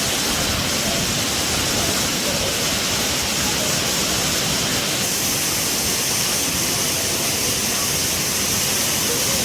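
Soochipara Waterfalls' water pouring, a steady loud rushing noise.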